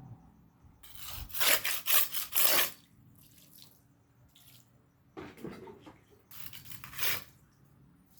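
Rough scraping strokes of a hand tool on a hard surface: a loud run of about four strokes between one and three seconds in, then fainter, spaced-out scrapes, with one louder stroke near the end.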